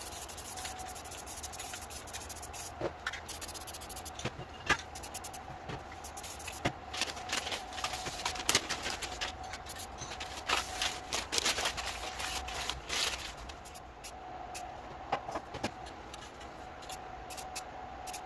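Paint strokes: a painting tool rubbing and scraping across the painting surface in many short, irregular strokes, over a steady faint hum.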